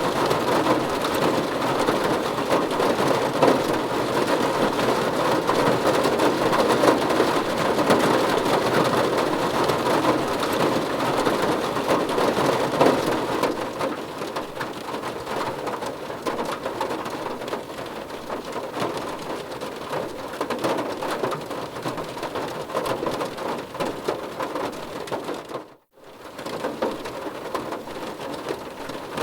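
Heavy rain falling on a car's roof and windows, heard from inside the car: a dense, steady patter that eases to a lighter rain about halfway through. The sound cuts out for a moment near the end, then the rain resumes.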